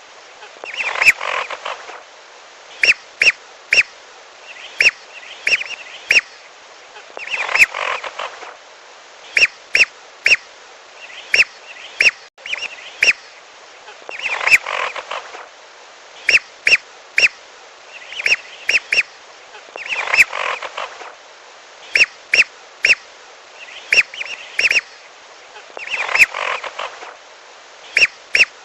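Whistling ducks (belibis) calling, played as a hunting lure: short, sharp whistled notes in groups of two to four, with a longer chattering burst of calls about every six seconds over a steady hiss.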